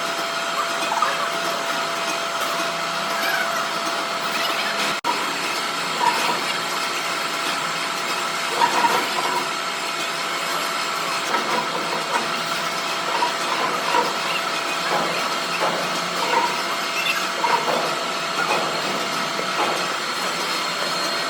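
Workshop machinery running steadily with a constant whine and short, scattered squeaks over a noisy hiss, briefly cutting out about five seconds in.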